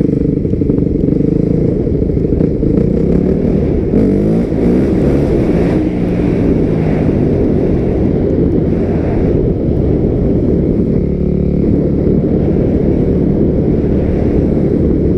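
A 250 cc dirt bike's engine running hard under throttle, its pitch rising and falling a few times as the rider opens and eases the throttle.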